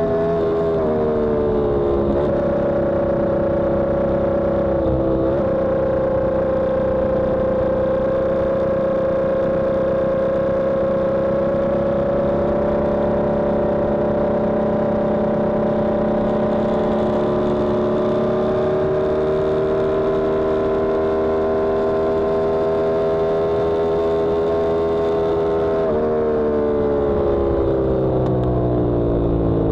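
Yamaha R1M's crossplane inline-four engine running hard from on board. Its pitch dips briefly near the start and again about five seconds in, then climbs slowly for about twenty seconds and falls steadily over the last few seconds as the revs come down.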